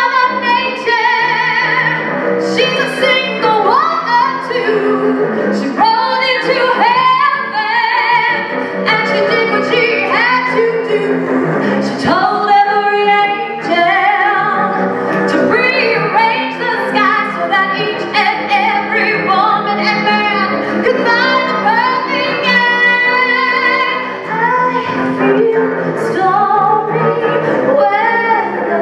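Woman singing a show-tune/pop mashup live in a strong belting voice, over a sustained bowed-string accompaniment.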